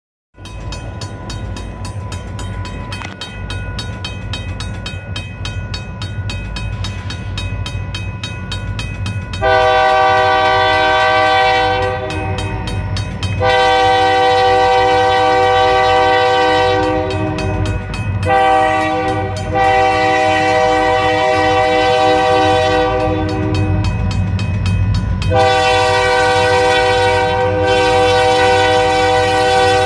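Diesel freight locomotives of the Kiamichi Railroad (EMD SD40-2 and GP40-3) rumbling, then the lead locomotive's air horn sounding a string of long blasts, about four, with short breaks between them, beginning about nine seconds in.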